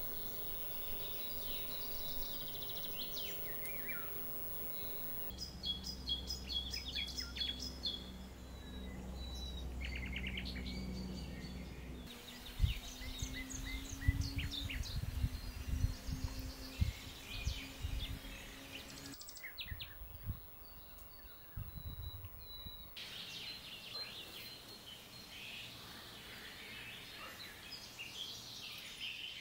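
Songbirds singing and calling, many short chirps and trills, heard across several short takes. One stretch carries a steady low hum underneath; another carries low thumps and rumble.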